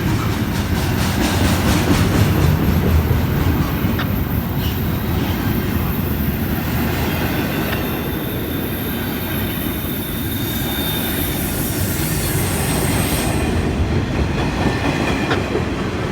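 Freight train cars rolling past at low speed, a steady rumble with wheel clatter. The brake shoes are lightly applied, and a faint high wheel and brake squeal runs through it.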